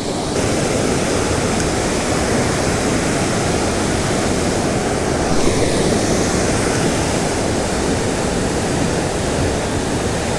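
Small creek waterfall pouring into its pool: a steady, unbroken rush of falling water.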